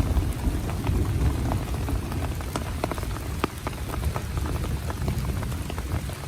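Heavy rain falling steadily, with many separate drops ticking sharply close by over a deep, constant low rumble.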